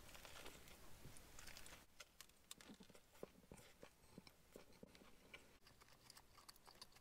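Faint chewing of a mouthful of chicken burger: soft, scattered mouth clicks, about two a second.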